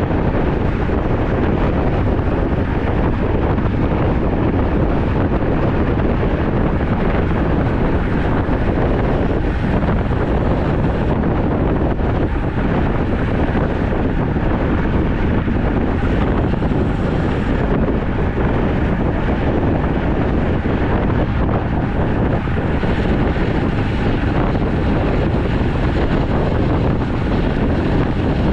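Wind rushing over the microphone of a moving road bicycle: a steady, loud noise weighted to the low end, without let-up.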